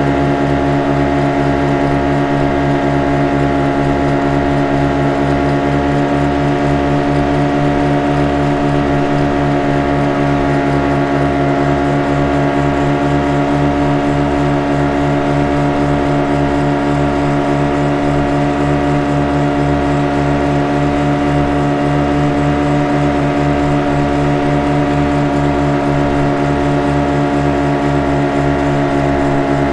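Speedboat engine running steadily at constant speed: an even, pitched hum with a fast, regular throb underneath.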